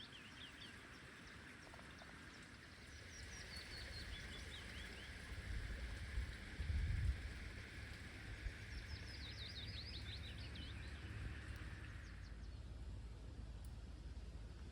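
A songbird singing short phrases of quick high chirps, three times, over a faint steady hiss that fades out near the end. A brief low rumble comes about six to seven seconds in.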